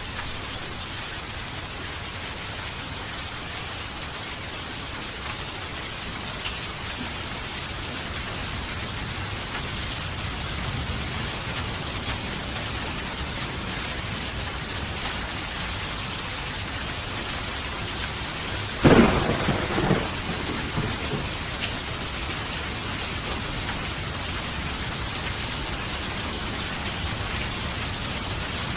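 Steady heavy rain falling, with a low thunder rumble building near the middle and a sudden sharp thunderclap about two-thirds of the way in that rolls on for a second or two.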